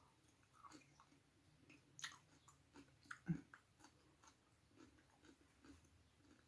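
Faint chewing with soft wet mouth clicks and smacks, a person eating a mouthful of food close to the microphone; the loudest clicks come about two seconds and three seconds in.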